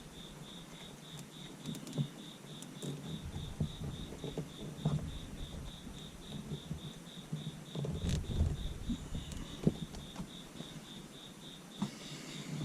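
Rustling and light knocks from wiring being handled and tucked, over a steady, rapid high-pitched chirping of about five pulses a second.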